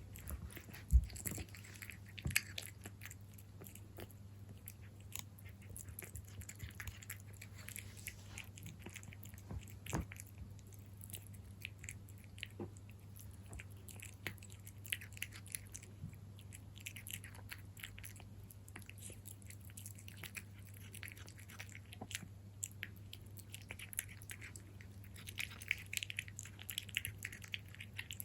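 Cat chewing and eating its food up close: a long, irregular run of small clicks and smacks from its mouth, over a steady low hum. A sharp knock about a second in is the loudest sound.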